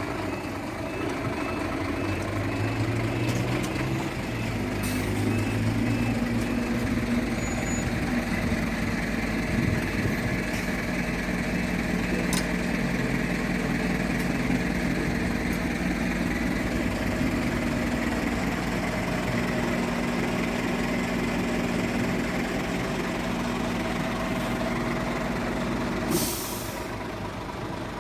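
A heavy vehicle's engine running steadily, its pitch rising once about four seconds in and then holding. It ends with a short sharp hiss of air-brake release near the end.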